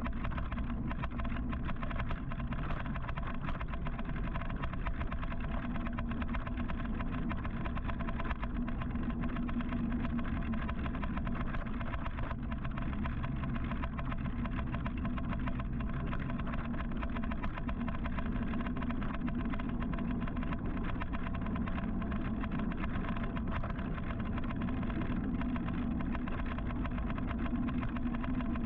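Steady rush-hour street traffic: car engines idling and running close by, heard in a continuous low din with a slowly shifting hum.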